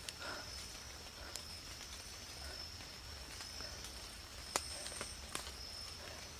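Night insects chirring in a steady high-pitched drone, with a few sharp clicks about a second in and again after four seconds.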